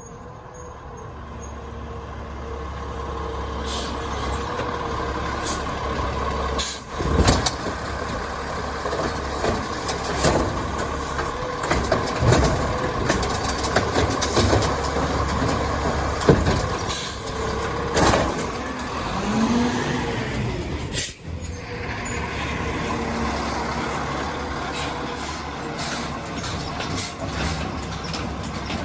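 Crane Carrier LET2 garbage truck with an Amrep automated side loader running and working. It grows louder over the first several seconds, with a steady mechanical whine, air-brake hisses, and repeated clanks and knocks throughout.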